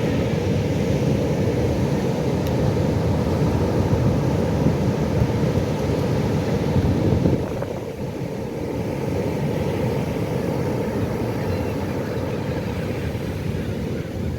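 Pacific Ocean waves: a steady low rush of surf that eases a little about halfway through.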